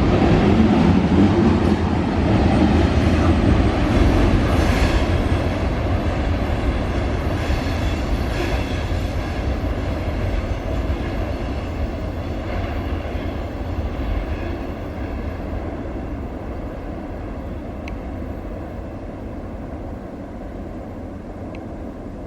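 Freight train cars rolling past on the rails, with a low rumble and a few wheel knocks, fading steadily as the end of the train moves away.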